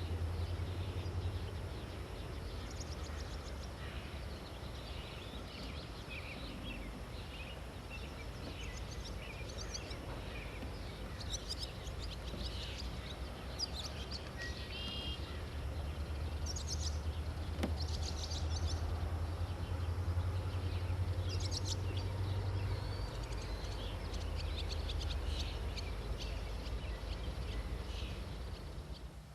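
Several songbirds calling and singing, many short, varied calls throughout, over a steady low rumble.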